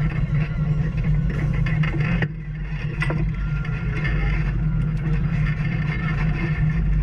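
Off-road vehicle engine running steadily while trail riding, with a brief drop in level just over two seconds in.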